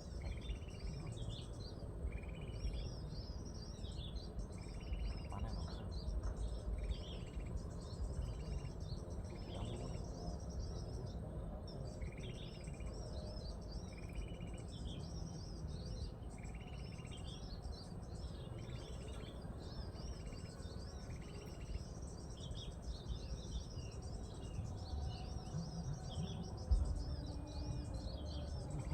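Birds calling: a short chirp repeated every second or two over busy, high rapid twittering, with a steady low rumble underneath. A single dull thump comes near the end.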